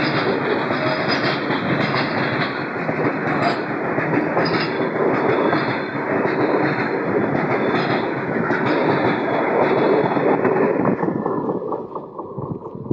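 Train running on the tracks: a steady, loud rush of wheel-on-rail noise with faint scattered ticks. About eleven seconds in, the higher part of the noise falls away and it begins to quieten.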